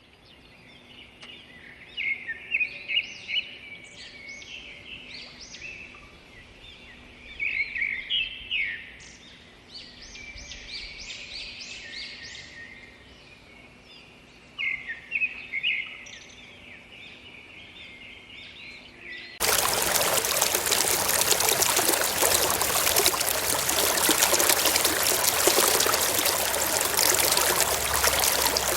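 Wild birds chirping in repeated clusters of short, high calls. About two-thirds of the way through, this cuts suddenly to a loud, steady rush of running water.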